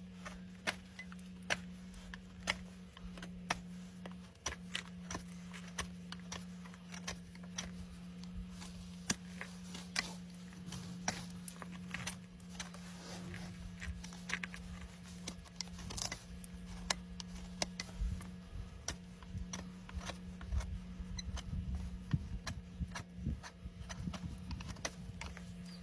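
Hoof-trimming tools working on a horse's hoof, making irregular sharp clicks and scrapes about once or twice a second, over a steady low hum.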